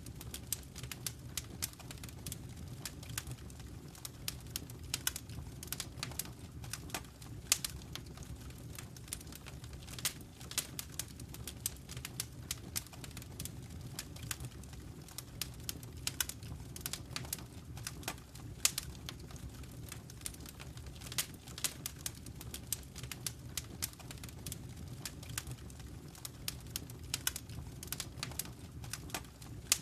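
Wood fire crackling in a fireplace: frequent, irregular sharp pops and snaps over a low, steady rumble of the burning flames.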